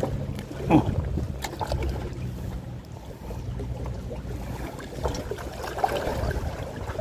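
A low, steady motor hum under wind and water noise, with a few light clicks and knocks.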